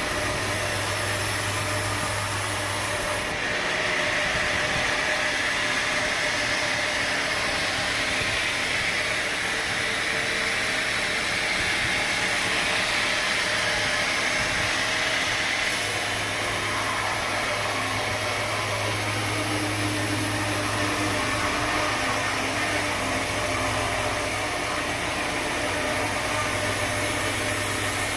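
Sawmill machinery running steadily, a continuous mechanical noise with a low hum. The hum fades about three seconds in, while a higher hiss grows stronger, then returns about sixteen seconds in.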